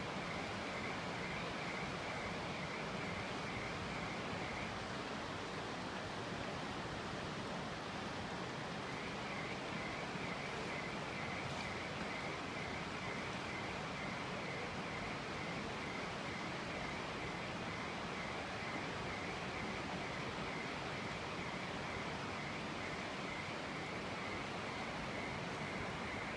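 Steady outdoor background noise with a continuous high trilling chorus that drops out for a few seconds about five seconds in, then resumes.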